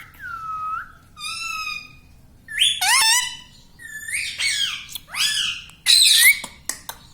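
Indian ringneck parakeet calling: a run of about six loud, pitch-gliding whistles and squawks with short gaps between them.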